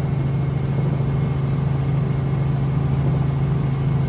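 Helicopter in flight heard from inside the cabin: a steady drone of engine and rotor, with a strong constant low hum and a faint steady high whine.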